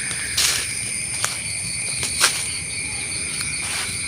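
Crickets trilling steadily in a night-time insect chorus, a high continuous ringing at two pitches. A few brief rustles and a click break in, the loudest a little past two seconds in.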